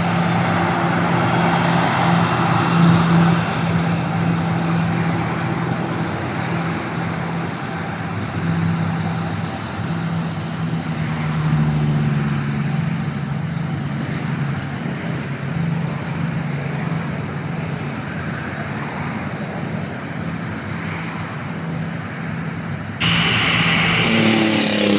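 Aircraft engine noise: a steady drone over a loud rushing noise that slowly fades. Near the end it changes abruptly to a louder roar with tones falling in pitch.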